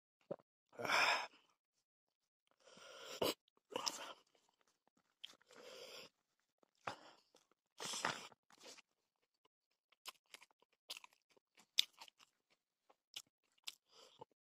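Close-miked chewing and crunching as a man eats a mouthful of rice and bean salad, in about five separate bursts, followed by a run of short mouth clicks and smacks near the end.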